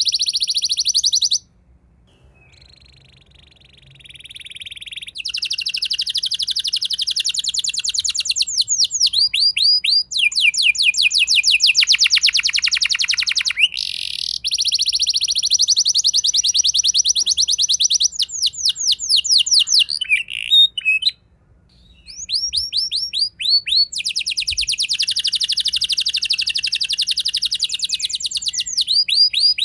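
A domestic canary singing long rolling trills, strings of rapid repeated notes and quick downward-sweeping phrases, high-pitched. It breaks off about a second and a half in and resumes softly, then pauses briefly at about 21 seconds.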